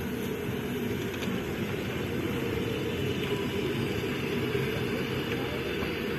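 Railway passenger coaches rolling past, a steady low rumble of wheels on the rails.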